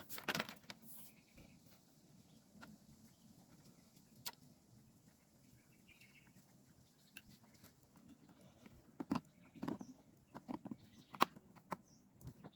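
Faint scattered clicks and knocks of gear being handled and packed away, growing busier near the end, over a quiet outdoor background.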